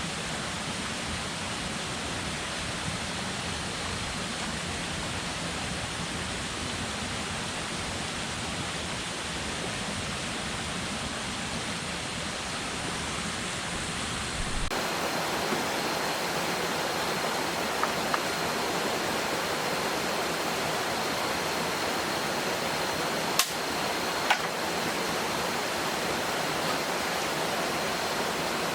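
Steady rushing water noise, like rain or a stream. About halfway through it changes abruptly, losing its low rumble and turning a little louder and hissier. Two sharp clicks follow, about a second apart, later on.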